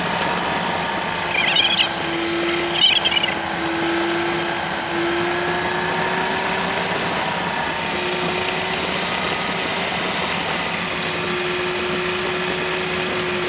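Loaded semi-truck driving at a steady speed, heard from inside the cab: the engine and drivetrain give a steady whine. Two brief high-pitched rattles come about a second and a half and three seconds in.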